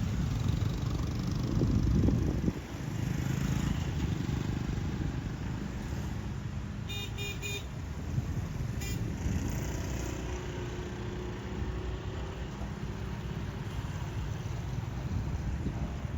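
Street traffic with motor vehicles passing, heaviest in the first couple of seconds. A vehicle horn gives three quick toots about seven seconds in and one more short toot about two seconds later.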